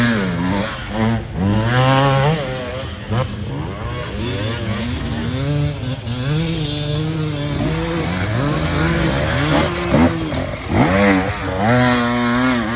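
Off-road racing engines revving hard and easing off again and again, more than one at a time, their pitch rising and falling several times.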